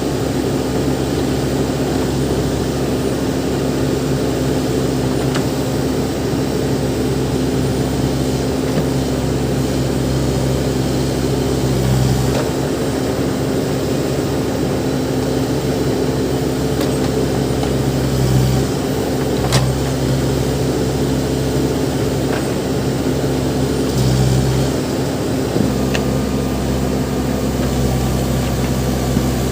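Backhoe loader's diesel engine running steadily, its note changing a few times as it works, with a few sharp clicks.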